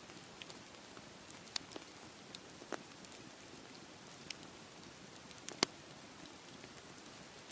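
Beach campfire crackling with scattered sharp pops, the loudest about two-thirds of the way through, over a steady wash of sea waves.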